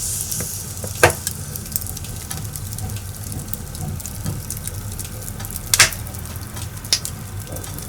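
Log fire burning with a steady hiss and low rumble, broken by many small crackles and a few sharp pops: one about a second in and two more near six and seven seconds.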